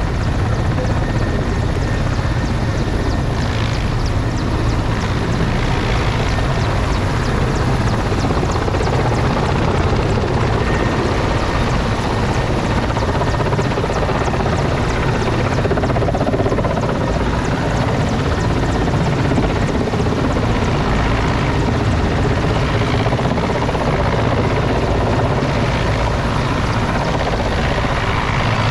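Helicopter rotors and turbine running loud and close, a steady heavy rotor noise with rapid blade chop and no let-up.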